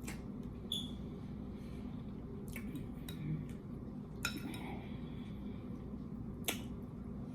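A handful of light clinks and taps of utensils against dishes while eating, about five scattered ones, over a steady low hum.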